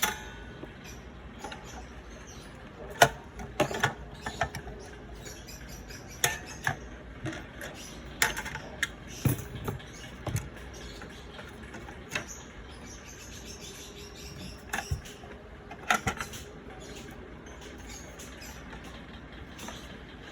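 A series of short, sharp clicks and knocks at irregular intervals over a steady low background noise, the loudest about three seconds in.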